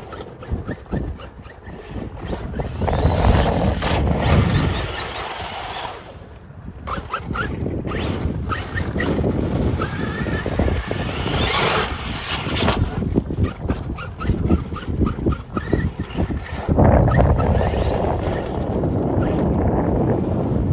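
Losi DBXL-E 2.0, a 1/5-scale brushless electric RC buggy, driving over soft dirt. Its motor whine rises and falls with the throttle over tyre and dirt noise, with a clear rising whine about halfway through.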